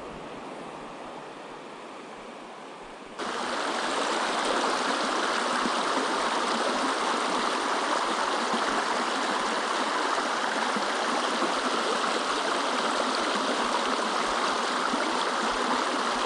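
Small creek rushing and splashing over rocks, a steady water noise that jumps suddenly louder about three seconds in.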